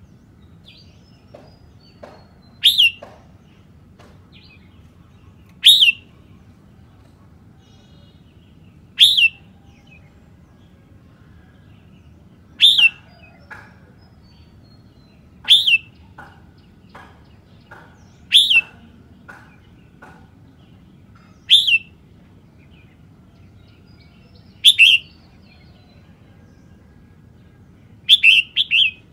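Red-whiskered bulbul singing a short, loud, high-pitched phrase about every three seconds, about nine times, with a quick double phrase near the end. Fainter chirps come in between the phrases.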